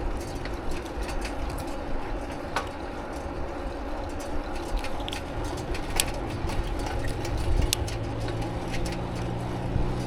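Steady rumble of riding a bicycle, with scattered sharp clicks and rattles. A low engine hum from passing traffic comes in about halfway through.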